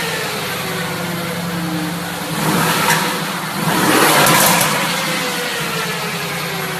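A car's engine and exhaust running at a steady pitch that slowly falls, with two louder swells of rushing noise about two and a half and four seconds in.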